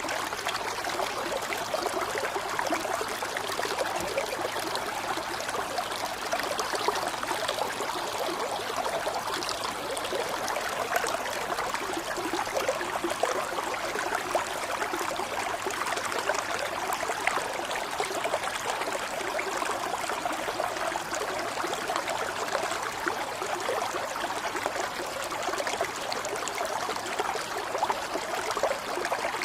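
Running water of a stream or brook, flowing and trickling steadily without a break.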